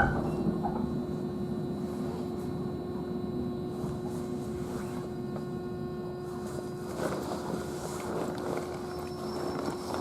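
Inside a JR Central 311 series electric train's motor car, steady running noise of wheels and motor with a constant hum, gradually getting a little quieter.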